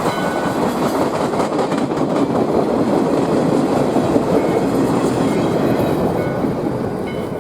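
Steam-hauled passenger train (US Sugar locomotive #148) passing close by, its steel wheels clattering steadily over the rails. The clatter cuts off suddenly at the end.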